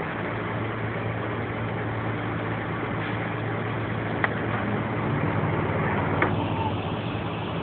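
Steady engine hum under a haze of noise, with two sharp clicks about four and six seconds in.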